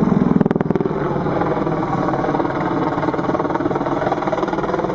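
Boeing AH-64 Apache attack helicopter in display flight: a rapid, even rotor beat over turbine noise. A few sharp clicks about half a second in.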